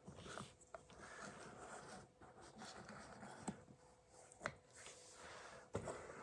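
Faint rubbing and scraping with a few light clicks and taps from a glass French press being worked, its mesh plunger moved up and down to mix the grounds.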